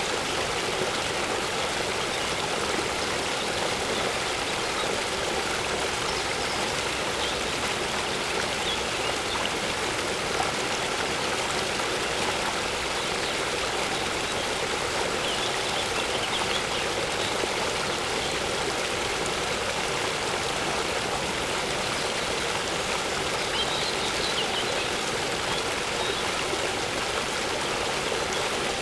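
Waterfall running steadily, an even, unbroken rush of water.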